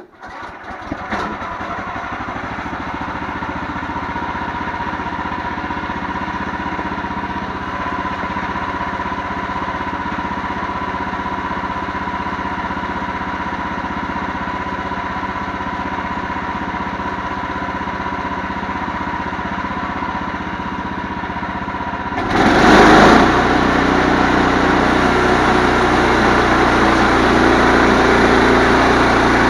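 Diesel engine on a cold start: it catches and runs up within about the first second, then runs steadily. About 22 seconds in it suddenly gets louder, as if throttled up, and stays at the higher level.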